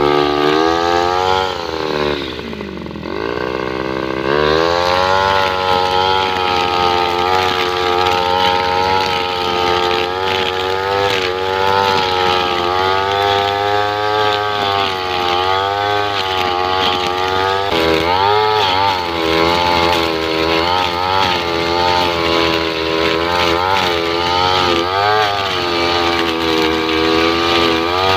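Two-stroke brush cutter fitted with a nylon-line trimmer head, running at high revs while cutting grass. The engine drops off the throttle and comes back up twice in the first few seconds, then holds high revs with small dips in pitch as the line bites into the grass.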